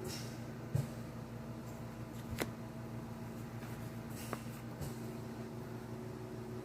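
Steady background hum of an electric fan and a home oxygen concentrator, with a few soft clicks.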